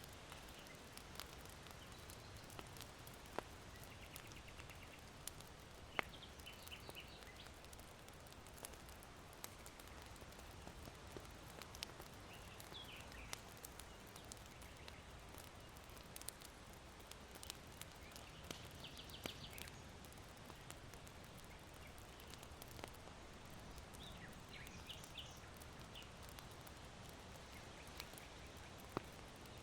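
Charcoal in an irori hearth crackling with scattered sharp pops, while small birds chirp faintly in short bursts now and then. Under both runs a soft steady hiss of wind.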